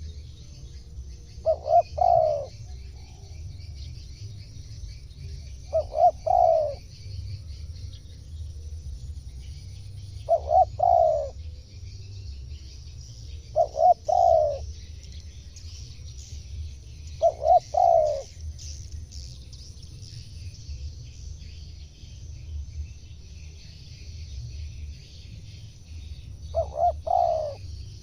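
Spotted dove cooing its phrase six times, a few quick notes running into a longer rolling coo, with pauses of a few seconds between phrases. Small birds chirp steadily in the background, over a low rumble.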